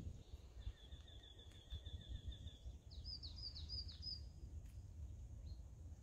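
A small songbird singing faintly: a fast trill of repeated high notes, then a short run of sharper, higher, falling notes about three seconds in, over a low rumble.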